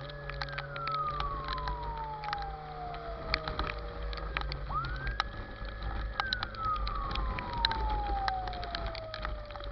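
Fire truck siren wailing in two slow cycles: each time it climbs quickly to a high pitch, holds for about a second, then slides slowly down. Many sharp crackles and a low rumble run underneath.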